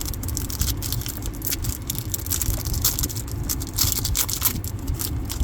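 Foil wrapper of a Topps Chrome Platinum trading-card pack crinkling and tearing as it is handled and opened. The crackling is irregular, over a steady low hum.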